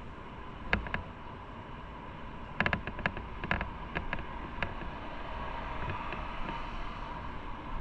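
Motorcycle on the move: steady wind and road noise with the engine running, broken by sharp clicks and knocks, two about a second in and a quick cluster of them between roughly two and a half and five seconds in.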